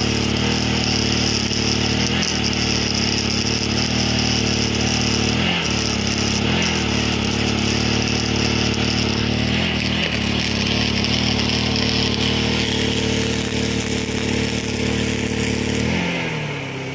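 Portable generator's engine running steadily under the load of a MIG welder, with the sizzle of the welding arc over it and a few brief breaks in the weld. Near the end the arc stops, the hiss fades and the generator's engine note drops as the load comes off.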